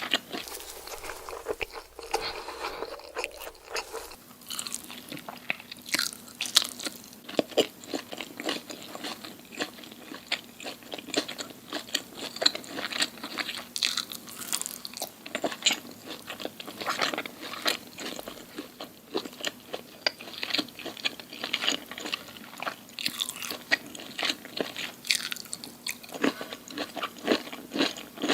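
Close-miked eating: crisp, crunchy food bitten and chewed, a dense run of sharp crunches several times a second.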